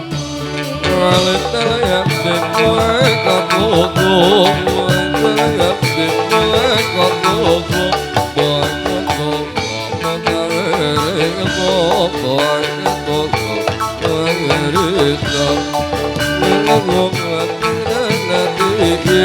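A live band playing an instrumental stretch of a song: a dense, steady drum beat under a pitched melody, with no sung words.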